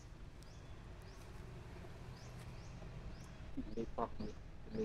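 A bird's short, high rising chirp repeats over and over, about every two-thirds of a second, over a steady low outdoor background. A few short voice-like calls come near the end.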